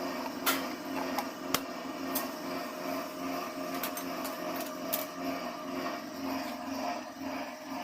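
Hand tools clicking and knocking against metal as the bolts of a motorcycle engine's magneto cover are fitted and tightened, a few sharp clicks in the first five seconds over a steady low hum.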